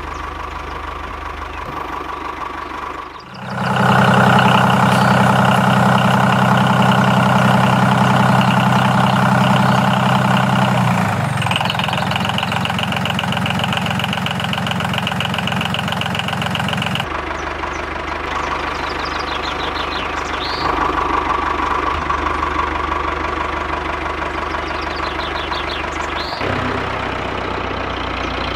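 A small motor running steadily with an engine-like hum. Its pitch and tone change abruptly four times: about 3, 11, 17 and 26 seconds in.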